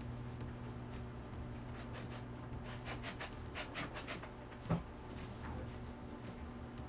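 A run of short scratching or rubbing strokes, then a single sharp knock about two-thirds of the way through, over a steady low hum.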